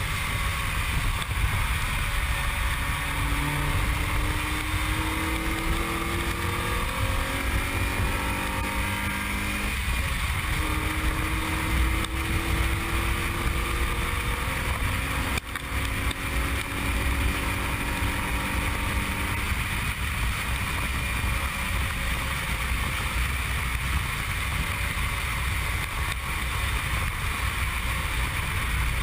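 Mazda MX-5's four-cylinder engine under hard acceleration, buried in heavy wind noise on the microphone. Its pitch climbs, drops about ten seconds in at a gear change, then climbs again and fades back into the wind.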